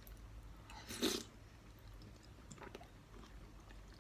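Faint eating sounds: a short breathy mouth noise about a second in, then a few small clicks of chewing.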